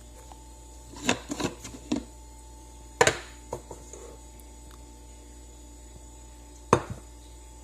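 A few sharp knocks and clicks of hard objects being handled: a cluster about a second in, a loud knock about three seconds in, and another near the end, over a steady hum.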